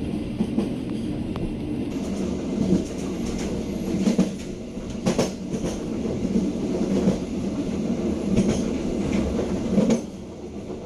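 Passenger train carriage running along the track, heard from inside: a steady rumble of the wheels on the rails, broken by irregularly spaced sharp clicks and knocks as the wheels cross rail joints. It grows quieter shortly before the end.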